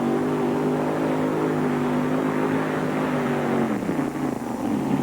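A mini modified pulling tractor's 557-cubic-inch Rodeck big-block Chevy V8 running at high revs under load during a pull that is short on traction. About four seconds in, the engine note drops sharply as the revs fall away.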